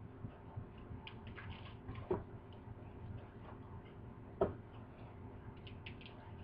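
Quiet chewing of butter lettuce leaves: small wet crackles and ticks, with two sharper clicks about two seconds and four and a half seconds in.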